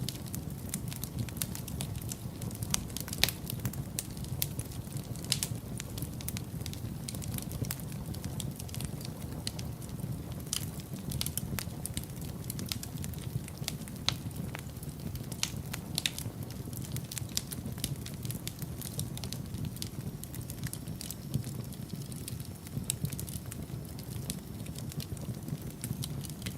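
Wood fire burning in a fireplace: a low steady rumble of flames with frequent sharp crackles and pops at irregular intervals.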